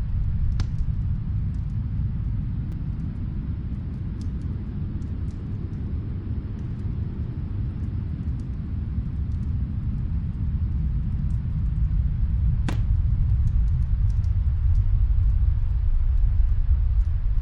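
Snowstorm wind rumbling low and steady, swelling louder in the last few seconds, with faint scattered crackles and pops from a wood fire, one sharper pop about two-thirds of the way through.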